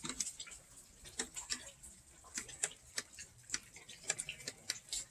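Rain dripping: irregular light ticks and taps, a few a second, over a faint hiss.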